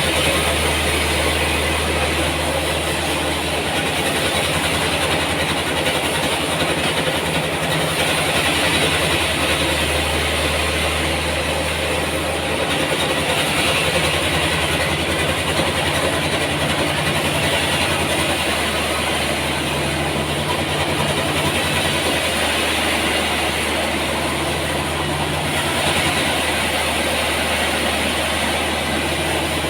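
Sawmill machinery running steadily: a constant engine drone with a fast pulse, and a hissing saw noise that swells and eases every few seconds.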